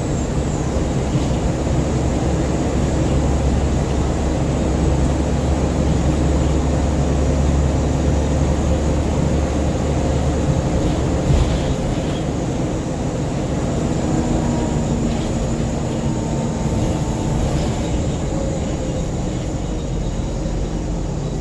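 Scania N94UB single-deck bus heard from inside the saloon while driving: a steady low diesel engine drone with road noise. About halfway through there is a knock, and the deep drone drops away, followed by faint gliding transmission tones.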